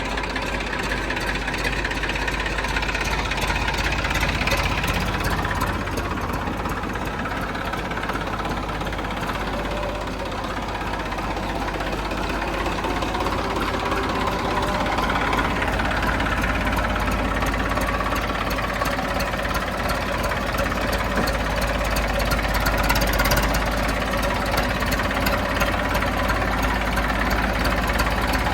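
Diesel engine of heavy farm or construction machinery running steadily, its pitch rising and falling slowly as the load changes.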